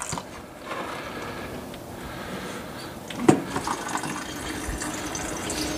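Old fuel, mostly water, running out of the snowblower's fuel system into a container, a steady pouring trickle: water-contaminated gas. A short knock sounds a little over three seconds in.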